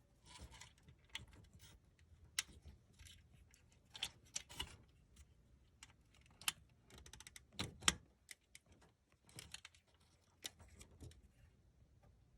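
Irregular small clicks, taps and rustles of hands working wire connectors and pliers on an HVAC control board. The loudest knock comes about eight seconds in.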